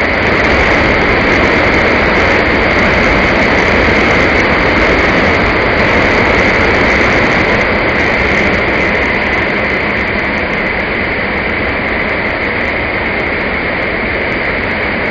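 A loud, steady rushing noise with no pitch, cutting in suddenly out of silence just before and holding unchanged throughout.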